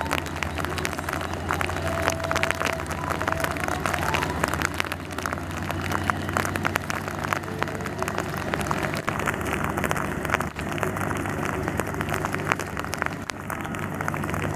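Rain falling, with a dense scatter of drop ticks, over a steady low engine hum from a Vietnamese diesel train.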